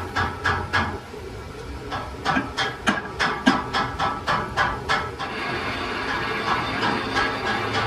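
Metalworking in a machine shop: a run of sharp knocks, about three a second, over a steady mechanical noise. The knocks stop about five seconds in and the steady noise carries on.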